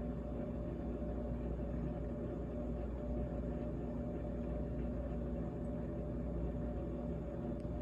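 GE GTH18XCTZRBB refrigerator running: a steady mechanical hum with several constant pitched tones over a low, even rumble.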